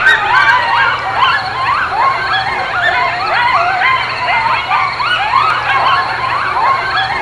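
A chorus of many animals crying over one another, each cry a short call that rises and then falls in pitch, several a second without a break.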